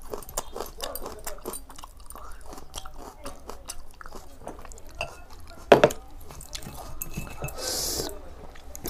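Close-up chewing and mouth sounds of a person eating water rice with prawn fry, with many small clicks throughout. There is one sharp, louder crunch a little before six seconds in and a brief hiss near the end.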